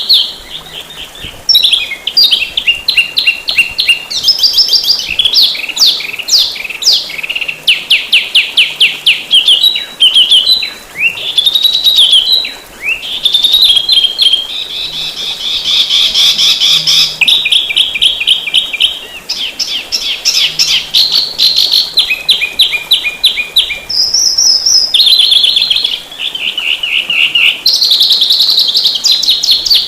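A songbird singing a fast, dense, continuous song of rapid trills, quick strings of repeated notes and short slurred whistles that change every second or two. This is a masteran recording for caged songbirds to learn from.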